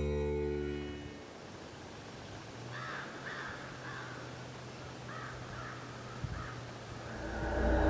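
Background music fades out, then a bird calls in two short series of about three calls each, a couple of seconds apart, over quiet outdoor ambience. Music comes back in near the end.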